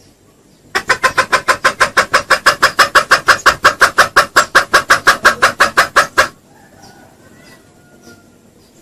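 Junglefowl giving a fast, even run of loud clucks, about seven a second, for roughly five seconds, then stopping abruptly. This is the lure call used to attract wild junglefowl.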